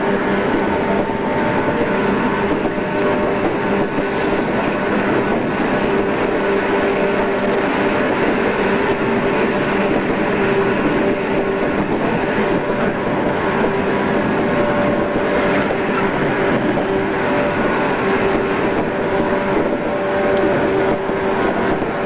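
JR East 113 series electric train running at a steady speed, heard from inside the car: a constant rumble of wheels on rail with a steady motor and gear hum that holds one pitch. Recorded on cassette tape, so the highs are dull.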